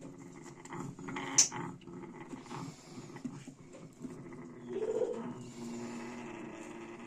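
Baby African grey parrot making soft low sounds, with one short, sharp high squeak about a second and a half in.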